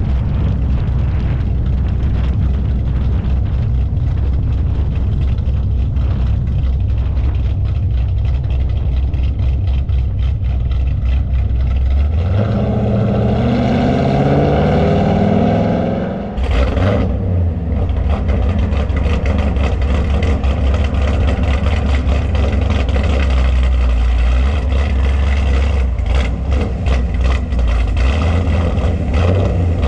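Car engine running with a steady low rumble. About twelve seconds in it revs up hard, rising for about four seconds, then cuts off sharply and settles back to a steady rumble.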